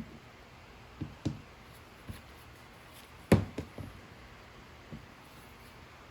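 A few light knocks and taps of wood and jig parts being handled and set down, with one sharper knock about three seconds in and two smaller ones right after it.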